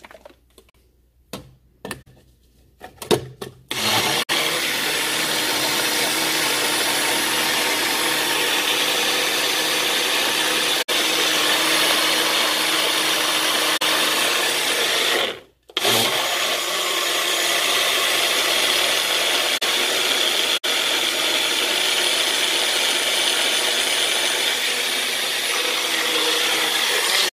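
Blender running as it blends fruit, starting after a few knocks about four seconds in, cutting out briefly about halfway, then running steadily again.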